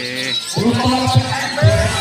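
Voices and music over a loudspeaker, with songbirds chirping faintly in the background.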